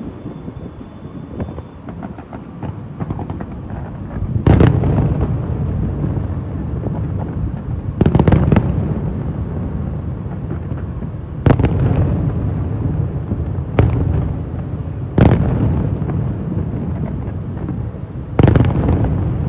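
Aerial fireworks display: five loud shell bursts, one every three to four seconds, each a sudden bang that fades into rumble. Between the bangs runs a steady low rumbling with scattered smaller pops and crackles.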